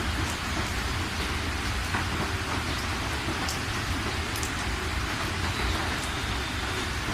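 Steady rain falling, with a constant hiss, scattered drop ticks and a low rumble underneath.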